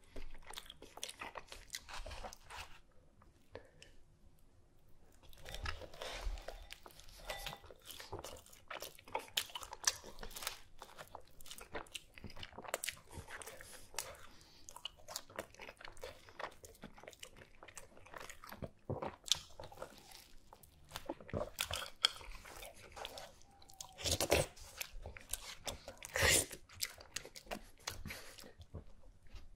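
Close-miked mukbang eating sounds: wet chewing, lip-smacking and squelching as a sandwich soaked in thick yellow sauce is eaten by hand and the sauce is sucked off the fingers. Irregular smacks run throughout, the loudest ones near the end.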